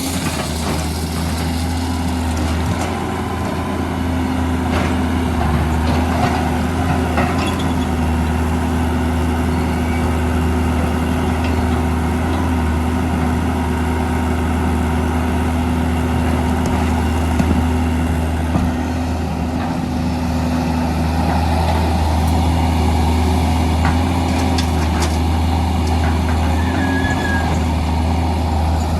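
Diesel engines of a Hitachi EX200 excavator and an Isuzu Elf dump truck running steadily at work, a deep steady hum, with a few sharp knocks scattered through.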